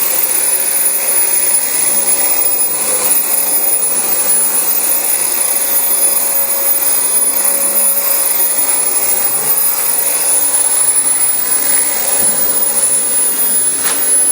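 Dyson DC25 bagless upright vacuum cleaner running steadily, pushed over carpet.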